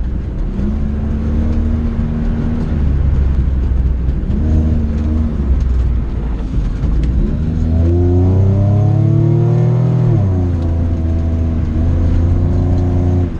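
Car engine driven hard through an autocross course, its pitch rising and falling with the throttle. There is a long climb in revs to a peak about ten seconds in, then a sudden drop to a steadier pitch, and the sound cuts off sharply at the very end.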